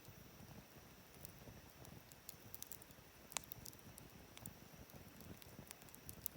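Wood campfire burning quietly, with faint scattered crackles and small pops over a soft flickering rumble; one sharper pop about three and a half seconds in.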